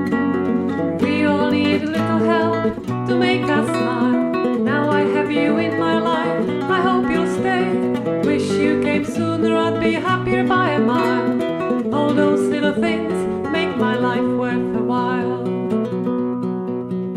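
Upbeat folk song played on a strummed acoustic guitar, with a steady rhythm.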